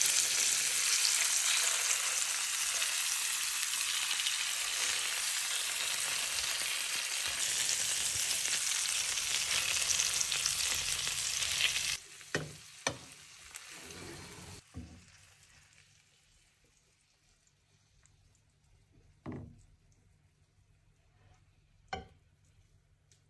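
Meat rolls stuffed with cheese sizzling loudly as they fry in a pan, turned with a wooden spoon. About halfway through the sizzling cuts off suddenly, and a few light knocks follow.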